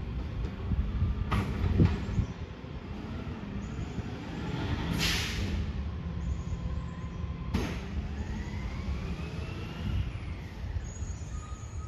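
Heavy truck's diesel engine running with a steady low rumble, a short burst of air-brake hiss about five seconds in, and a few sharp clicks.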